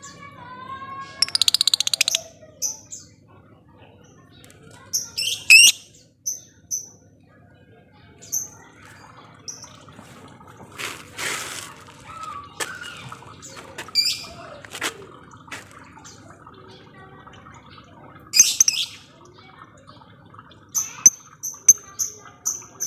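Lovebird chattering: a rapid high trill about a second in, then scattered sharp chirps and squawks, and a quick run of short repeated chirps near the end.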